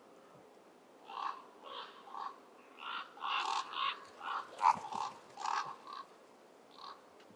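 Ravens giving a run of about a dozen short, harsh alarm calls, coming thickest in the middle. They are worried by a predator approaching the site.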